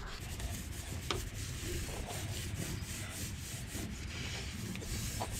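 Paintbrush strokes spreading paint over wood: a steady soft scratchy brushing.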